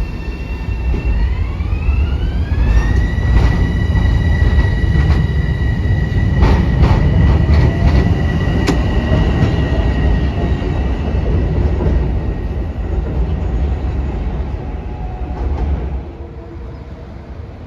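Metro-North electric multiple-unit train pulling out: a propulsion whine rises in pitch over its first couple of seconds and then holds steady over a heavy rumble, with clicks of wheels over rail joints in the middle. The sound drops away about sixteen seconds in as the cars pass.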